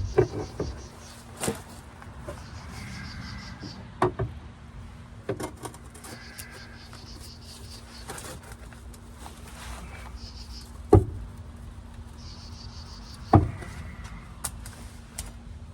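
Scattered knocks and clunks as the jammed, crushed door of a Dodge Dakota is worked at. The sharpest come about eleven and thirteen seconds in. Between them an insect chirrs outdoors in short pulsing bursts several times.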